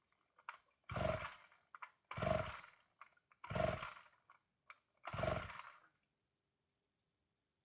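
Chainsaw's recoil starter pulled four times, about a second and a half apart, each pull spinning the engine briefly before it dies away; the engine does not catch.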